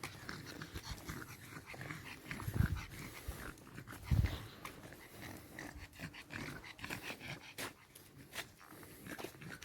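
A dog barking twice, about two and a half and four seconds in, over faint clicks and outdoor noise.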